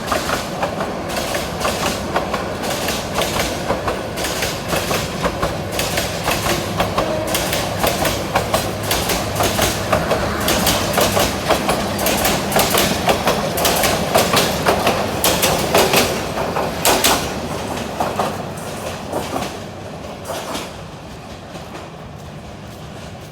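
Intercity passenger train going by close at hand, its wheels clattering rapidly over the rail joints. The clatter is loud for most of the time, then thins out and fades away near the end.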